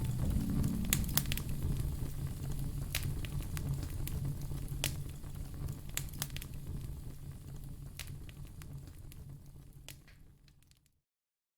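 Wood fire crackling in a fireplace: scattered sharp pops over a low steady rumble. It fades gradually and dies away to silence near the end.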